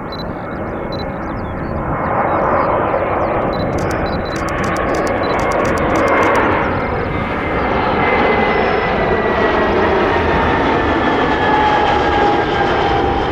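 Airbus A320 airliner with IAE V2500 turbofans passing on its landing approach: a loud jet rush that swells about two seconds in and then holds, with a faint engine whine that slowly falls in pitch as it goes by.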